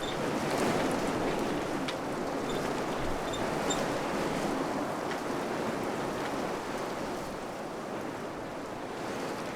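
Wind blowing in steady gusts: a rushing noise that swells a little in the first couple of seconds and eases slightly toward the end. A few faint short high chirps and ticks sit over it.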